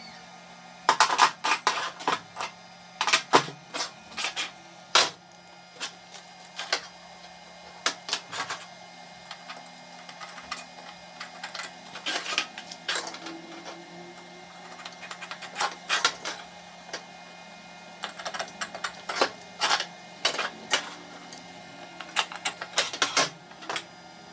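Irregular sharp metallic clicks and knocks from hand work on tools and metal parts, sometimes in quick clusters of several strikes, over a faint steady low hum.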